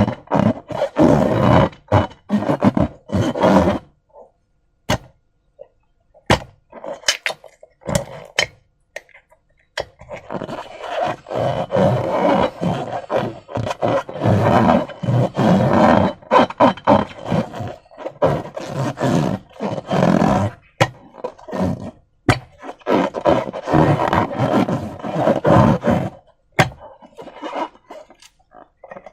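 Slime being squeezed and worked by hand, squelching in irregular bursts with sharp little pops and clicks. It thins to scattered clicks for a few seconds after about 4 seconds in, then squelches steadily again until near the end.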